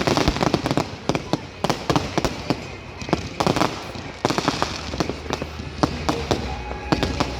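Fireworks display going off: a rapid series of sharp bangs and crackles, with spells of fizzing, crackling hiss about three and four seconds in.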